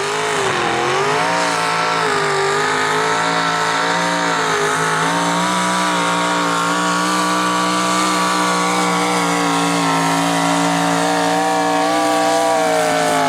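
Mini rod pulling tractor's engine running flat out under load during a pull. The pitch dips briefly at the start, then holds high and nearly steady with a slight waver.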